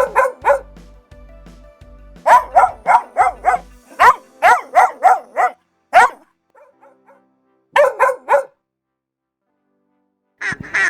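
A dog barking in quick runs of short, high barks, three to six at a time, falling silent for about two seconds near the end. In the last half-second a duck starts quacking rapidly.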